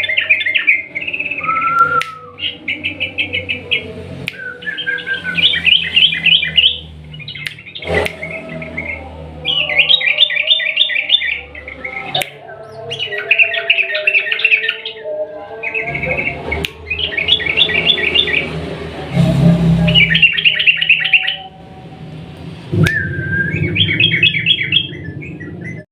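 Yellow-vented bulbul (trucukan) singing a long, fast song: repeated bursts of rapid chattering notes, each about a second long, with short pauses between them.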